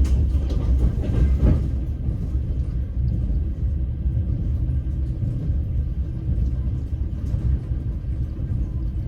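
Passenger train running, heard from inside the carriage: a steady low rumble of the wheels on the rails, with a few sharper knocks in the first couple of seconds.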